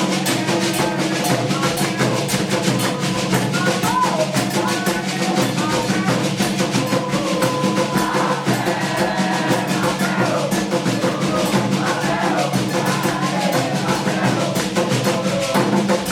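Candomblé ritual drumming on atabaque hand drums, a fast, dense beat, with a group of voices singing a chant over it.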